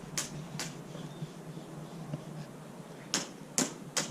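Wood fire crackling: sharp snaps and pops at irregular intervals, two about a second apart near the start and three close together near the end.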